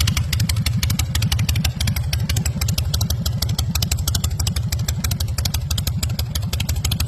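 2003 Bourget Black Jack Ace chopper's V-twin engine idling, a steady train of rapid, even exhaust pulses.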